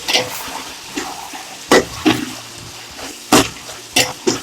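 A spoon stirring frying masala in a cooking pot, knocking and scraping against the pot about six times, with the masala sizzling underneath.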